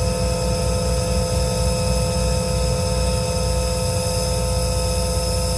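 Truck-mounted RC40 air compressor running steadily as it fills its tank toward about 180 psi, over the idle of the truck's PACCAR PX7 diesel engine: a constant hum with a few fixed tones over a low rumble.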